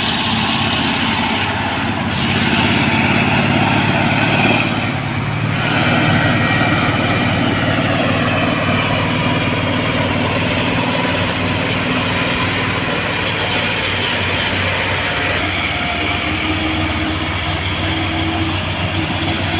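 Diesel engine of an overloaded truck carrying steel bridge parts, working steadily under the heavy load. It eases briefly about five seconds in.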